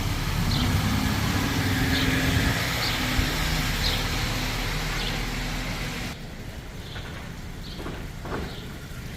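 A motor vehicle running on a wet street: a steady low engine hum under a hiss. The hiss cuts off abruptly about six seconds in, leaving the quieter hum.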